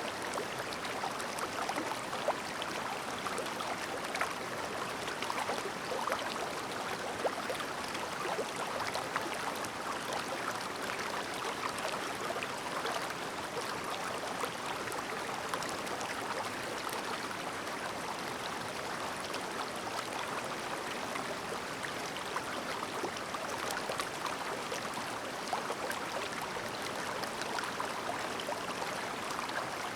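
Shallow, clear mountain stream babbling steadily over stones, a continuous rush of water with many small splashes and trickles.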